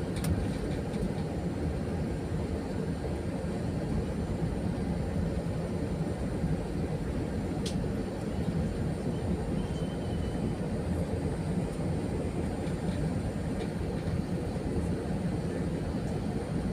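Steady cabin drone of an Airbus A320-200 heard from inside the economy cabin: a constant low rumble of engines and airflow, with one faint click about eight seconds in.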